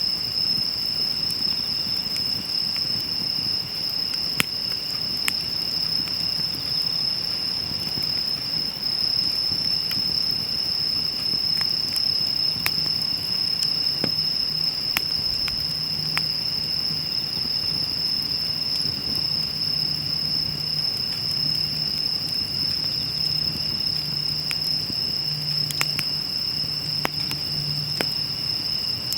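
A steady, high, unbroken insect trill, cricket-like, runs throughout. Sparse sharp crackles and pops from a burning wood fire sound over it, a few seconds apart.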